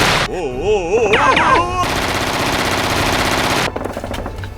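Machine-gun fire sound effect: rapid automatic fire ending shortly after the start, then a wavering pitched cry with falling glides, then a second, longer burst of about two seconds that stops sharply near the end.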